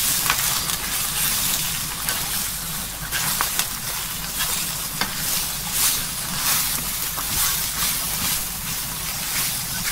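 Cabbage and sliced frankfurters sizzling steadily in a hot frying pan as they are stir-fried with wooden chopsticks, with light clicks of the chopsticks against the pan now and then.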